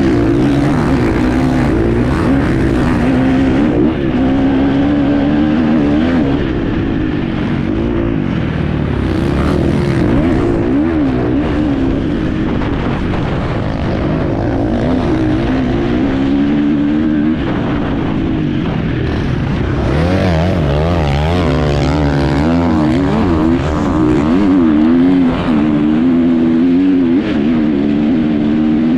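Enduro motorcycle engine heard on board while riding, its pitch rising and falling continually as the rider works the throttle, with a run of quick revs up and down about twenty seconds in.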